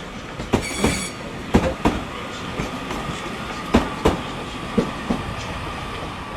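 Train wheels clattering over rail joints and points in uneven clicks, with a thin steady squeal and a brief high-pitched wheel screech about a second in.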